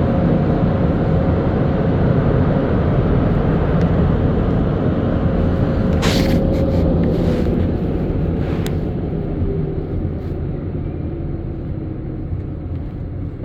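Automatic car wash machinery running around a car, heard from inside the cabin: a steady low rumble with a constant hum. About six seconds in comes a brief hissing burst, and a short click follows near nine seconds, after which the sound gradually eases off.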